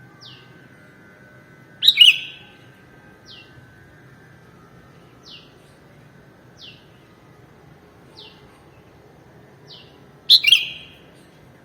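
Sooty-headed bulbul calling, with a loud, full call phrase about two seconds in and another near the end. Between them, short thin falling notes repeat every second or two.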